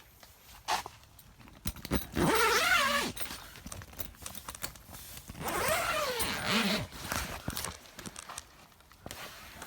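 A zipper, such as a tent or shelter door zipper, pulled twice in long scratchy runs, its pitch sliding as the pull speeds up and slows, with small clicks and rustles between the pulls.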